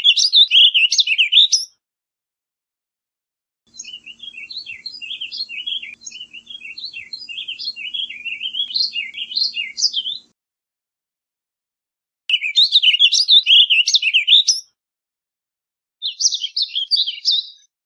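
Warbling vireo singing: short, rapid warbled phrases of rising and falling notes, with pauses between songs. In the middle comes a longer, quieter run of warbling over a faint low hum.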